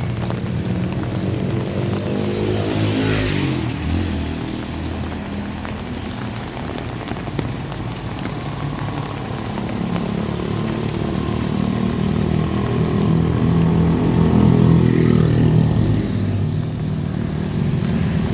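Motor vehicle engines passing by: one sweeps past about three seconds in, and another grows louder to a peak around fifteen seconds in before fading.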